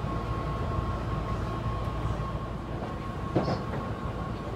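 Running noise inside a Keihan limited express train car in motion: a steady low rumble with a thin, constant whine above it, and one brief knock about three seconds in.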